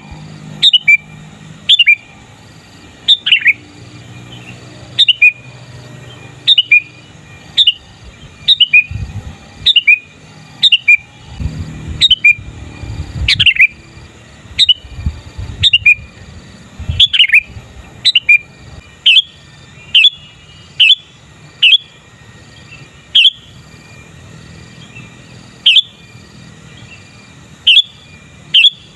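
Sooty-headed bulbul giving loud, short call notes that sweep downward in pitch, repeated about once a second with occasional short pauses.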